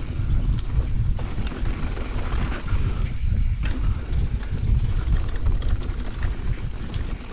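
Mountain bike riding fast on a dirt trail: wind buffeting the microphone as a heavy low rumble, with scattered clicks and rattles from the bike.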